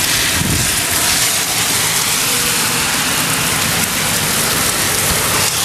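Heavy rain pouring down hard, a dense steady hiss of rain on hard surfaces, mixed with wind.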